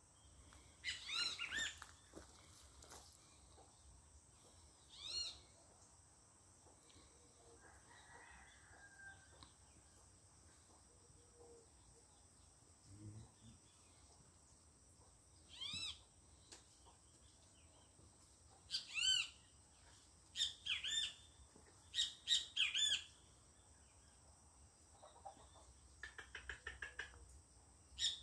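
Songbirds chirping in short, scattered bouts of quick, high, arched notes, the loudest bouts in the second half, with a quick run of ticking notes near the end over a faint steady high drone.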